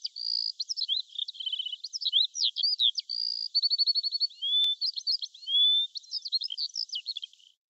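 Songbird singing a fast, varied song of whistles, chirps and short trills, stopping about seven seconds in.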